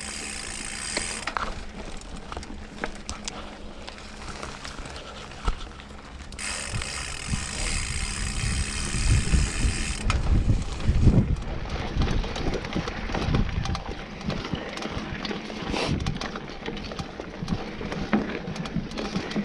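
Mountain bike ridden along a dirt trail: the freehub ratchets and the chain and frame rattle, with many small clicks throughout. Heavy low rumbles come from about halfway through, as the bike goes over rougher ground.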